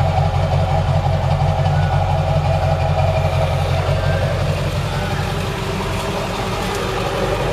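Ford 7.3-litre Power Stroke turbo-diesel V8 idling steadily.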